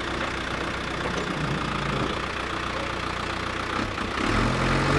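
A vehicle engine idling steadily, growing louder and deeper about four seconds in.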